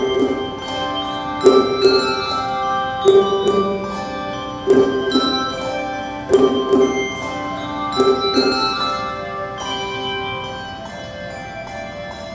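Handbell choir playing a hymn-like piece in a church. Chords of ringing bells are struck together about every second and a half, each note sustaining, and they die away toward the end.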